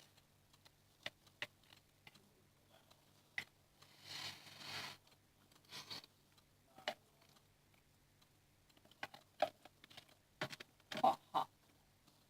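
Soft, scattered clicks and taps of a fork in a clear jug of scrambled eggs, with a brief scrape about four seconds in and a cluster of louder taps near the end, over a faint steady hum.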